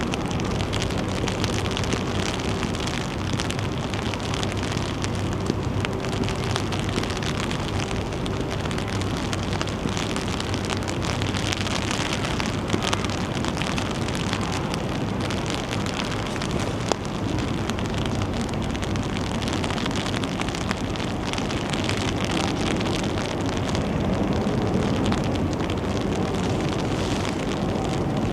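Steady rain and wind: a constant hiss of rainfall over a low, steady hum.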